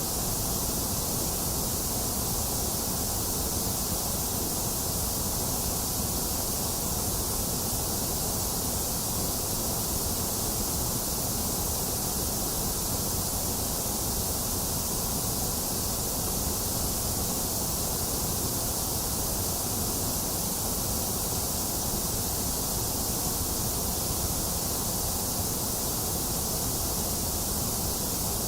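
Box fan running with steady rain: an even, unchanging hiss, strongest in the high treble.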